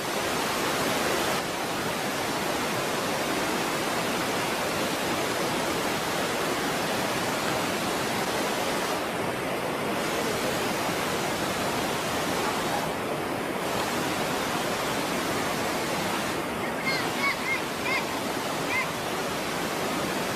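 A steady, even rushing noise, with a few short high chirps near the end.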